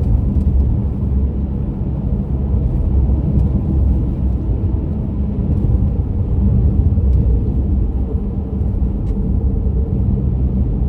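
A car driving along, heard as a steady low rumble of road and engine noise.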